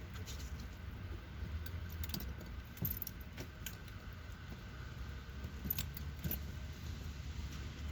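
Someone rummaging through things inside a vehicle: scattered light clinks and rattles, about a dozen, with a few keys jingling, over a low steady rumble.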